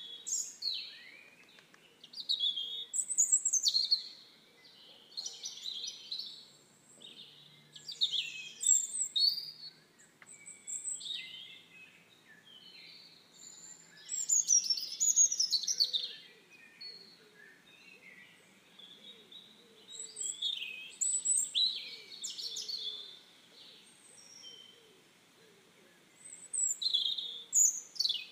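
Songbirds singing: bursts of quick, sweeping chirps and trills every second or two, with short quiet gaps between phrases.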